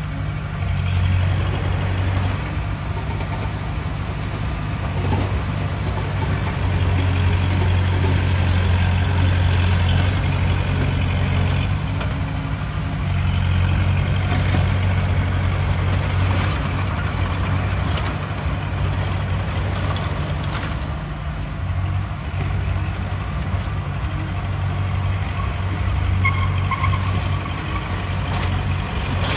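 Heavy diesel engine of earthmoving machinery running steadily, its load rising and easing every few seconds, with a few scattered knocks.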